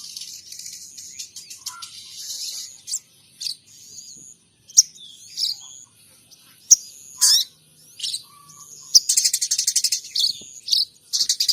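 Sogon trotol songbird singing in bursts of fast, high chirps and rattling trills with short whistled glides between them. It is imitating munia and Eurasian tree sparrow calls.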